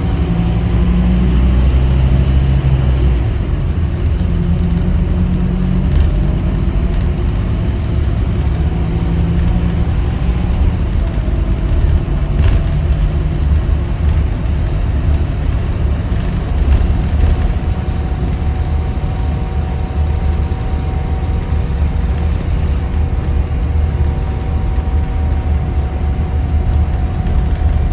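Scania K310UB city bus running, its diesel engine and drivetrain giving a heavy steady rumble. The engine note shifts in the first few seconds and again around ten seconds in, and a steady whine comes in about two-thirds of the way through.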